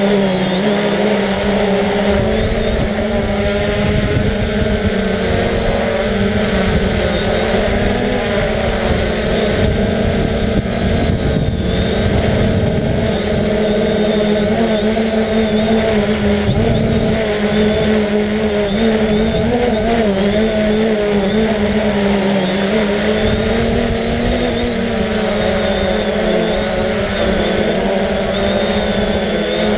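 Quadcopter drone's motors and propellers humming steadily in flight, the pitch wavering slightly as the motors adjust, with gusty wind rumbling on the microphone.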